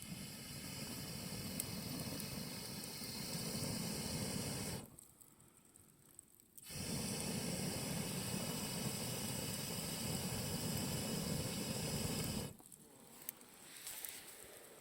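A fire's flames hissing in two steady rushes, the first about five seconds long and the second about six, each cutting off suddenly, with a quieter gap between.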